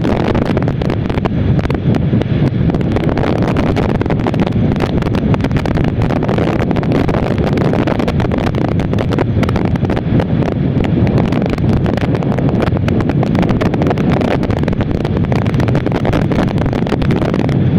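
Wind rushing over the microphone of a motorcyclist riding at highway speed, a steady low rush mixed with road and engine noise.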